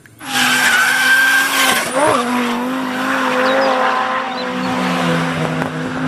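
Race car doing a burnout: engine held at high, steady revs while the driven tyres spin and squeal, with a brief dip in engine pitch about two seconds in.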